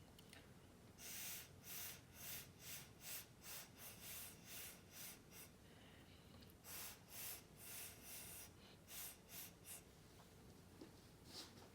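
Short puffs of breath blown through the mouth to push thinned acrylic pour paint across a canvas, in quick runs of about two or three puffs a second, with a short pause midway.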